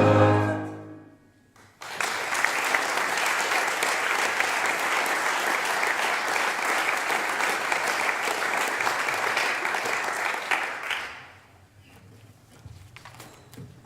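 The choir's last sung chord fades out. After a moment of quiet, the audience applauds steadily for about nine seconds, and the clapping dies away near the end, leaving a few faint knocks and shuffles.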